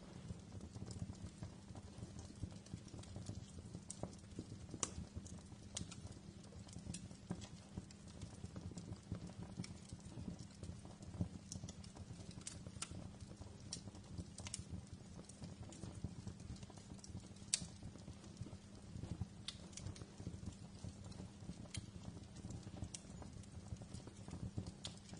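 Wood fire in a fireplace crackling: irregular sharp pops and snaps over a steady low rumble of burning, with one louder pop about two-thirds of the way through.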